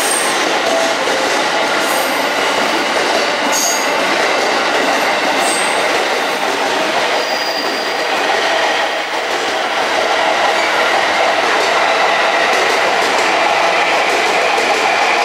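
Electric train running past on the tracks: a continuous rolling noise of wheels on rail, with a few short high-pitched wheel squeals in the first six seconds.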